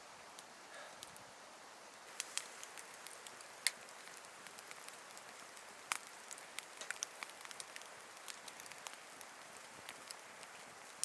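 Wood campfire crackling: irregular sharp pops and snaps over a faint steady hiss, coming more often from about two seconds in.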